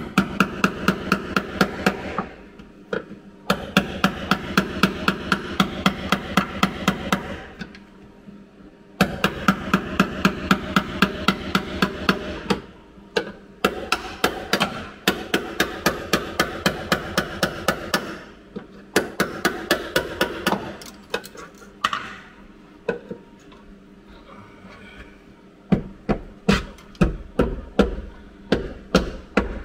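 A hammer beating on sheet steel in quick, even runs of about six blows a second, with the metal ringing under the strikes. The runs stop and start every few seconds. Near the end come slower, heavier blows.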